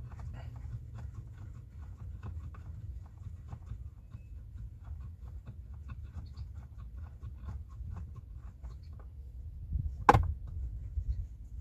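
Small clicks and taps of hands and tools working on car brake fittings, over a low steady hum, with one sharp knock about ten seconds in.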